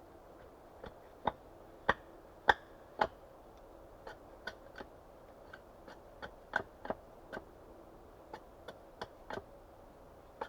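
Axe work on wood: four sharp strokes about half a second apart, then a run of lighter, irregular knocks.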